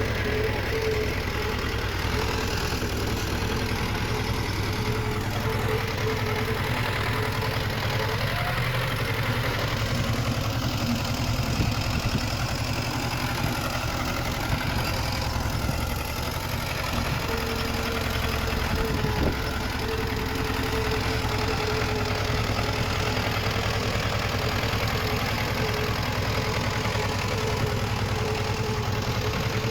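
Diesel engine of heavy earthmoving machinery, likely the Komatsu D20 bulldozer, running steadily at a constant engine speed, with a faint whine that comes and goes over the engine.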